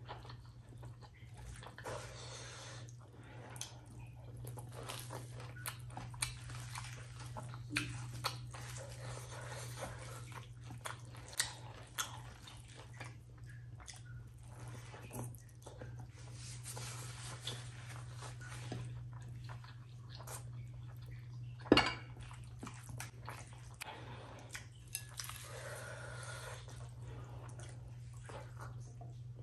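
Close-miked eating by hand: wet chewing and lip smacking of mouthfuls of rice mixed with mashed potato bharta and fried egg, with many small clicks and one much louder sharp click about three-quarters of the way through. A steady low hum runs underneath.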